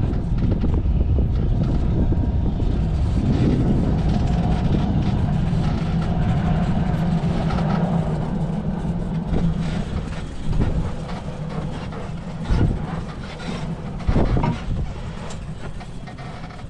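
Electric UTV driving down a steep, rough track: a steady rumble and rattle of the vehicle over the ground, with a low hum for a few seconds in the middle and a couple of sharp jolts later on.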